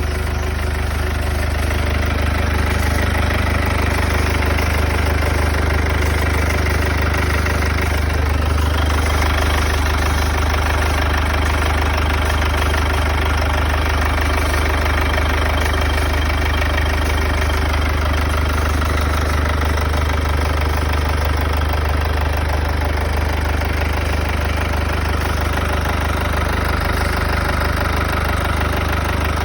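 Mercedes OM651 2.1-litre four-cylinder diesel idling steadily on a cold start, with a strange noise from the front of the engine.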